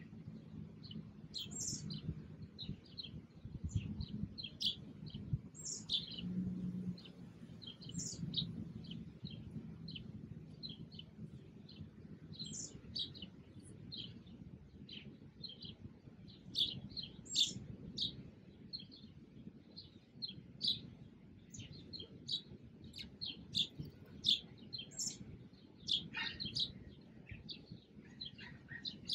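Small birds chirping in a tree, many short high chirps in quick, irregular succession. A low steady hum lies underneath, stronger for the first several seconds.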